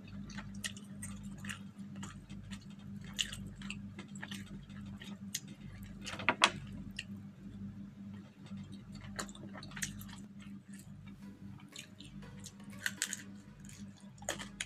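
Close-up chewing of crispy deep-fried fish and rice, with many short, irregular crunching clicks and a sharper crunch about six seconds in. A steady low hum runs underneath.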